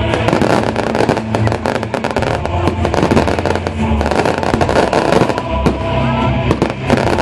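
Rapid, continuous popping and crackling of fireworks or a string of firecrackers, with festival music playing underneath.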